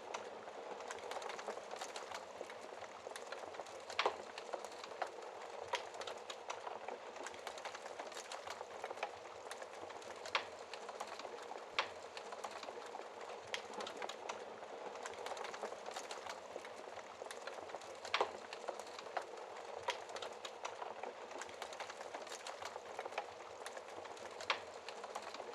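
Logs burning in a fireplace: a steady hiss of flames with frequent sharp crackles and pops, a few of them louder, scattered irregularly through.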